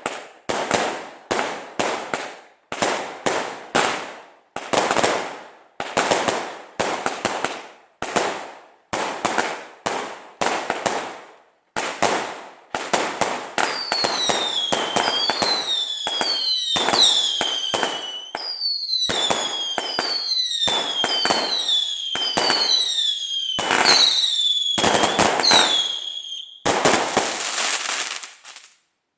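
A 138-shot fireworks cake firing in rapid succession: sharp bangs about two a second for the first half, then whistling shots, each whistle falling in pitch, mixed in among the bangs. It ends in a short burst of crackle and then stops abruptly.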